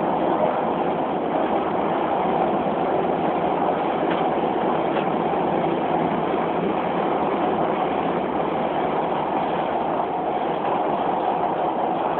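Steady running noise of a Beijing Subway Line 4 metro train, heard from inside the car, with no marked rise or fall.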